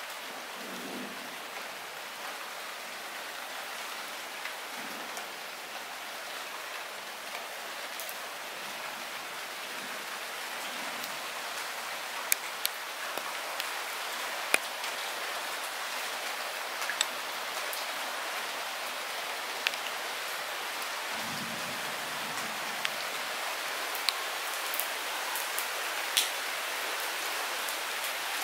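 Light rain falling steadily, an even hiss with sharp single drips ticking close by, more of them in the second half. Two faint low rumbles sit underneath, one near the start and one about two-thirds through.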